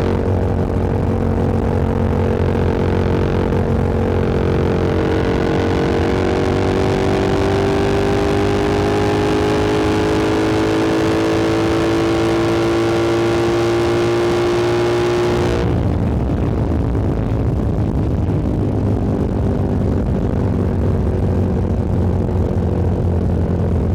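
Motorcycle engine under way, its pitch climbing slowly as the bike gains speed. About two-thirds of the way through the higher part of the sound drops away suddenly as the throttle closes, and the engine settles to a steady, lower note.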